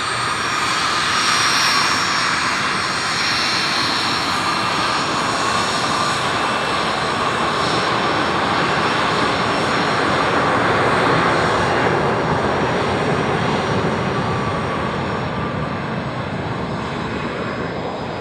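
Aircraft engines running: a loud, steady rushing noise with a few high whining tones on top, fading over the last few seconds.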